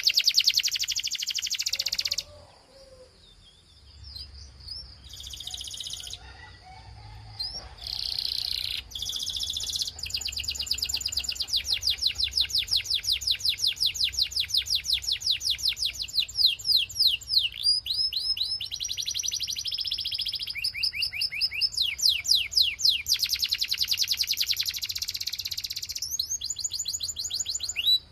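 Canary singing: rapid trills of one note repeated many times a second, switching to a new trill every few seconds, with a short break about two seconds in.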